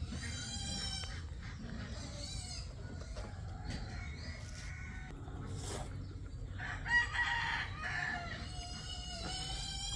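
Roosters crowing several times, the loudest crow about seven seconds in, over a steady low background noise.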